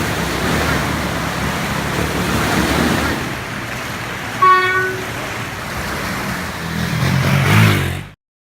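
Steady rush of floodwater running over a road, with a vehicle horn giving one short toot about halfway through. Near the end a motor vehicle's engine grows louder, then the sound cuts off suddenly.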